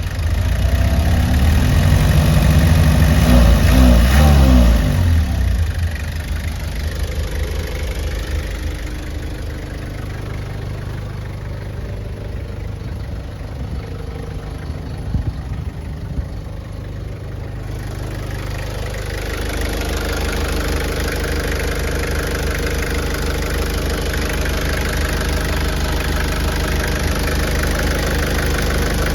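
Toyota HiAce diesel engine, blipped once early on with the revs rising and falling back. It then idles steadily, and about two-thirds of the way through the revs climb gradually and hold at a higher, steady speed.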